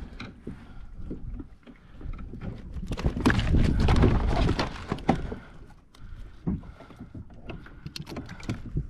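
Knocks, rubbing and clatter from handling the catch and gear aboard a fishing kayak, with a louder rushing, rattling stretch midway and a low rumble underneath.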